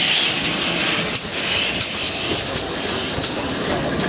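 Steam train running, a steady rumble with hiss and a brief knock about a second in.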